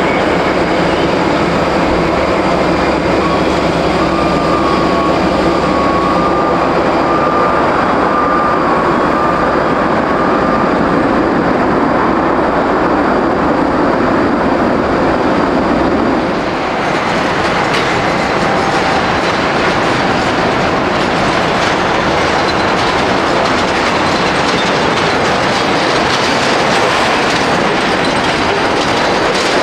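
Loud, steady jet engine noise of a large airliner at close range on the runway. About halfway through the sound changes abruptly and turns hissier.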